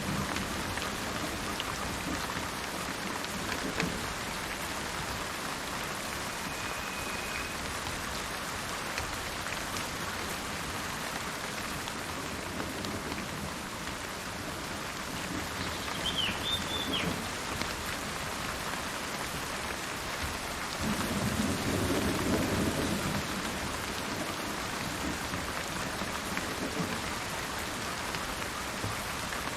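Steady rain falling, with a low roll of thunder swelling for a couple of seconds about two-thirds of the way through. A short bird call sounds a little past halfway.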